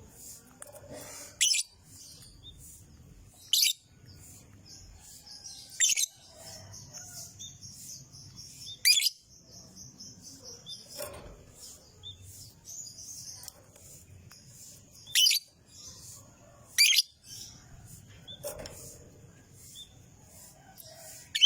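Lovebird calling: sharp, shrill chirps every few seconds over continuous high-pitched twittering.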